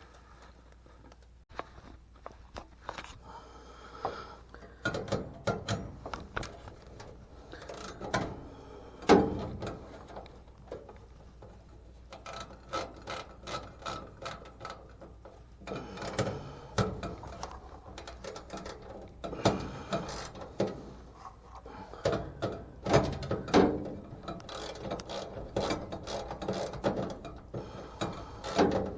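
A ratchet driver clicking in short bursts as screws are turned into the dryer's sheet-metal access panel, with pauses between bursts.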